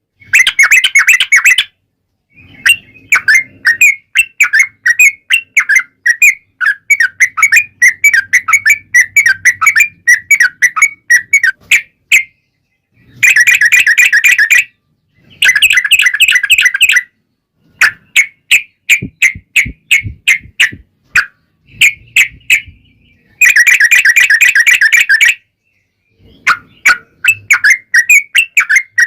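Yellow-vented bulbul (trucukan) song in long rapid runs of short chirping notes, broken by brief pauses, with a few dense, very fast bursts in the middle and near the end. It is a 'ropel panjang' lure song, played to set other trucukan singing in reply.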